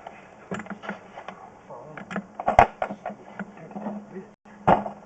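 Sewer inspection camera's push cable and reel being fed and handled: irregular clicks and rattling knocks over a faint steady hum, with two sharp knocks, one about halfway and one near the end.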